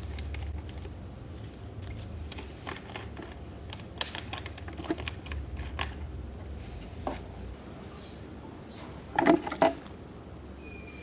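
Scattered light clicks and taps, then a quick run of louder knocks about nine seconds in.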